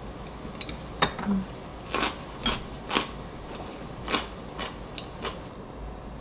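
Close-up eating sounds: a string of short crisp clicks and crunches, about nine in all, as food is bitten and chewed.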